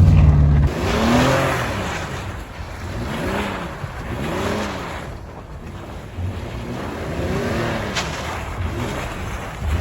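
Car engine revving up and down over and over while the car spins donuts in deep snow; the pitch climbs and drops again about once a second. A loud low rumble at the start cuts off under a second in.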